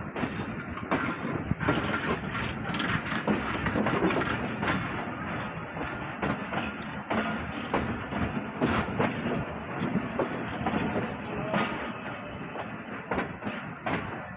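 Pakistan Railways passenger coaches of a departing express train rolling past, their wheels clattering and knocking over the rail joints in an uneven run of clicks.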